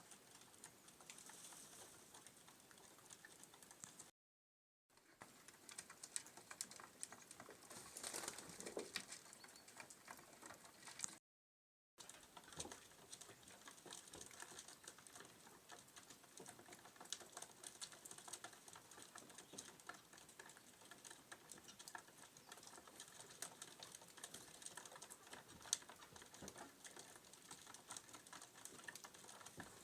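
Pigeons pecking at scattered feed, a dense, faint patter of quick small taps, broken twice by a brief total silence.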